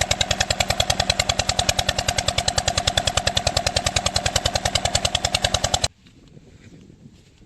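Stationary Lister-type diesel engine driving an irrigation water pump, running steadily with an even, rapid exhaust beat of about twelve pulses a second. The sound cuts off abruptly about six seconds in, leaving faint background.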